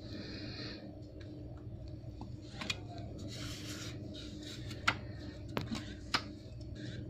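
Light scraping and rubbing of a small tool against a smartphone's housing, with several sharp clicks in the second half, over a steady low hum.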